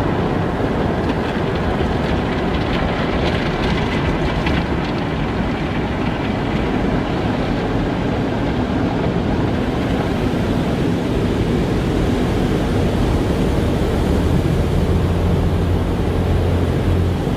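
Car wash running: a steady rush of spray and machinery noise with a low rumble, the hum growing stronger about fourteen seconds in.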